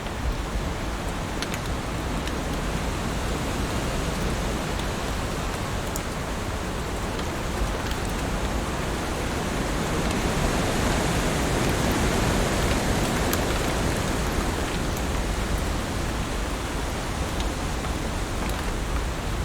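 Heavy rain falling steadily on leaves, a dense even hiss with a few sharp single drop ticks, growing a little louder in the middle.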